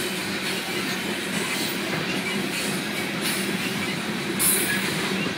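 Loaded coal train's hopper cars rolling past at a steady pace, a continuous rumble and rattle of steel wheels on the rails, with a brief high-pitched burst about four and a half seconds in.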